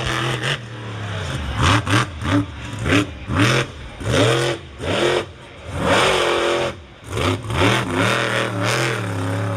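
Monster truck engine revving hard in repeated throttle bursts, the pitch climbing and dropping again every second or so as the truck races over the obstacles.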